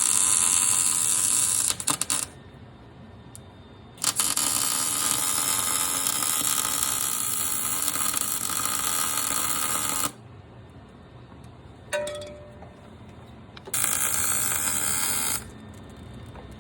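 Welder arc crackling and buzzing in three bursts of about two seconds, six seconds and a second and a half, with short pauses between. It is welding a nut onto a broken brake caliper bleeder screw so the screw can be turned out.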